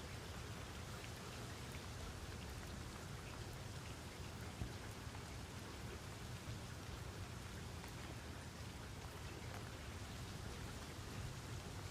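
Steady rain falling, with scattered individual drops ticking and a low rumble underneath; one louder drop lands about four and a half seconds in.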